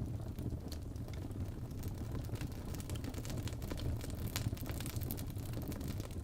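Crackling fireplace ambience: wood fire burning with a steady low rumble and frequent small sharp pops and crackles.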